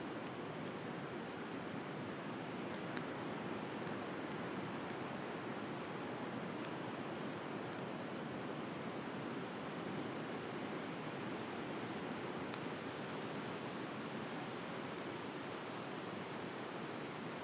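Wood bonfire crackling with occasional sharp pops over a steady wash of sea surf.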